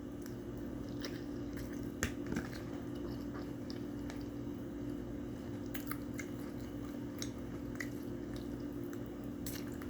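Close-up chewing of baked spaghetti, with scattered wet mouth smacks and small clicks over a steady low hum.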